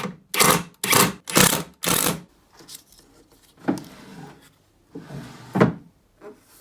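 Wood rubbing and scraping against wood in four quick strokes about half a second apart, then two fainter strokes later on.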